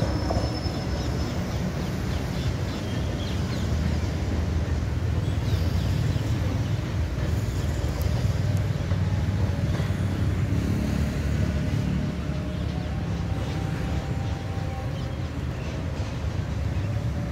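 Steady low rumble of an electric multiple-unit local train running away down the line, mixed with the general hum of traffic.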